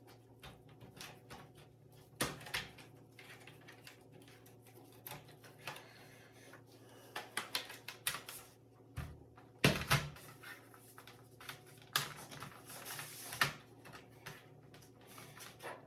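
Irregular clicks, taps and knocks of plastic laptop parts and small tools being handled during disassembly, over a faint steady hum. The loudest knocks come about two-thirds of the way through.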